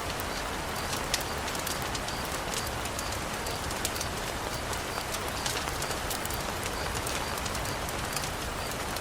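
Steady rain falling on a wooden balcony, with scattered sharp ticks of drops among the even hiss.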